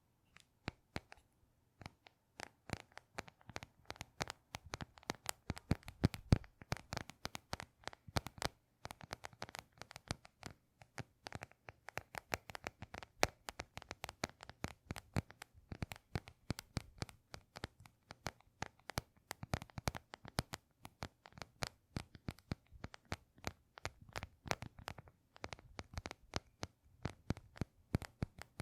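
Close-miked ASMR handling of an object: a dense run of crisp clicks, crackles and scratches, several a second, with a brief pause about a third of the way through.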